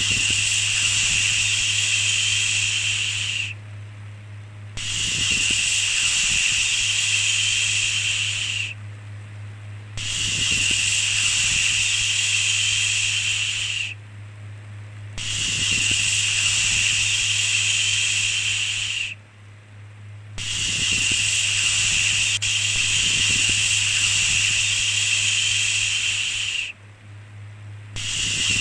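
Long repeated shushing 'shhh' sounds, each held for about four seconds with a short pause between, six in all, over a steady low hum.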